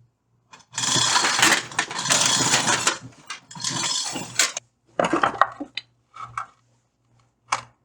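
Metal clanking and rattling, with a long noisy clattering stretch about a second in and shorter knocks later, as the engine is worked free of its last motor mount.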